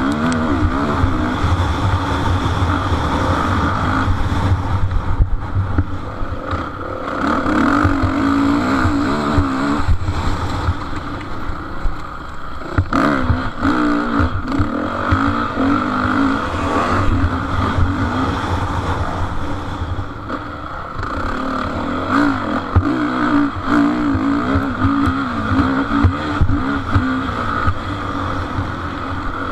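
Motocross bike engines racing, revving up and down again and again as the bikes accelerate and back off.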